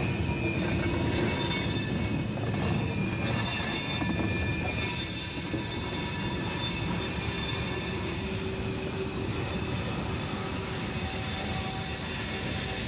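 Freight train tank cars rolling past on steel wheels, a continuous rail noise with a steady high-pitched wheel squeal over it.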